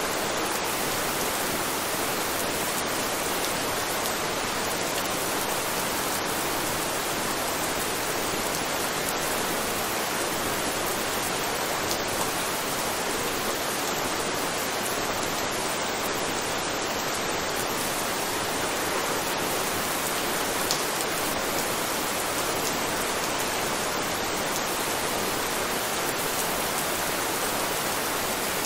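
Steady rain, an even hiss that doesn't change, with a couple of faint single ticks.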